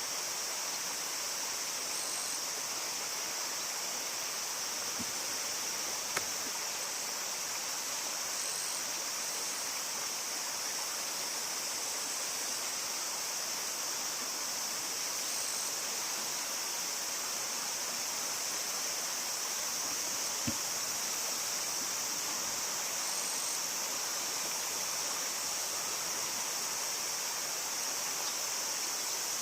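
Steady rush of river water with a constant high-pitched hiss over it, and two faint clicks about six and twenty seconds in.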